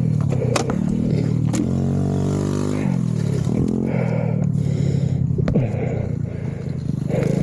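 Honda CRF450RL's single-cylinder four-stroke engine with a titanium Yoshimura RS-4 exhaust idling steadily. The engine note rises and falls once about two seconds in.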